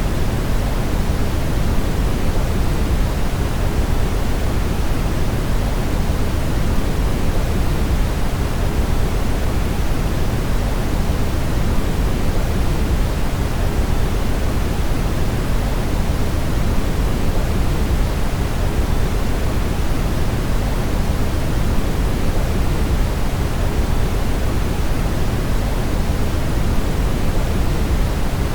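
Brown noise: a steady, unchanging hiss-like rumble with its energy weighted toward the low end, deeper and softer than white noise.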